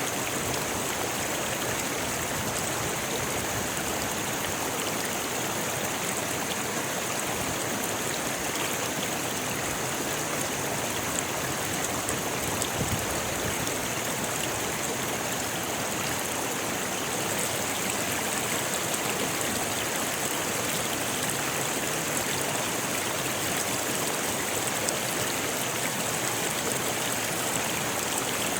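Rocky river flowing steadily: a constant, even rush of water over stones.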